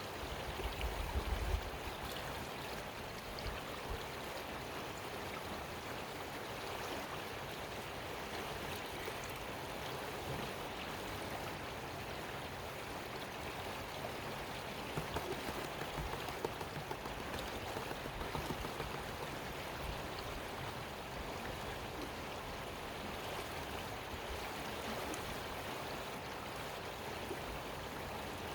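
Creek water running over rocks, a steady rush. In the first two seconds there are some low bumps and rumbles close by.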